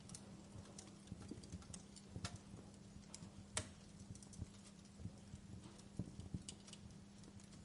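Wood fire crackling: irregular small snaps and pops, with sharper pops a little over two seconds in, about three and a half seconds in, and around six seconds in, over a faint steady hum.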